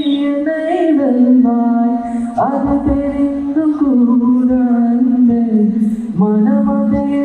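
A single voice singing long, held notes that glide and bend, with low beatboxed thumps underneath, in a sung-and-beatboxed mashup.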